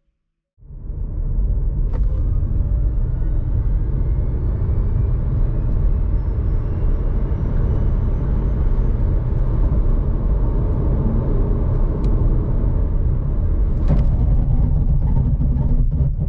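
2021 Kia Niro accelerating hard: a heavy, steady rumble of drivetrain and road noise with a faint whine slowly rising in pitch. It starts abruptly and dies away right at the end.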